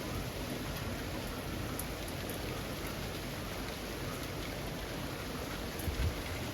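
Steady summer rain falling on leafy trees: an even hiss of rain, with a few separate drops ticking and a brief heavier patter about six seconds in.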